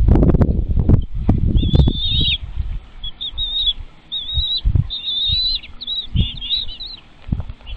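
Nestling birds giving high, rapid begging chirps in repeated short runs, over bursts of low rustling and thumping that are heaviest in the first two seconds.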